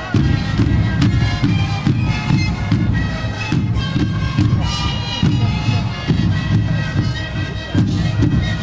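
A sikuri ensemble of many siku panpipes playing a melody together in a breathy, massed chord, over the regular beat of large bass drums.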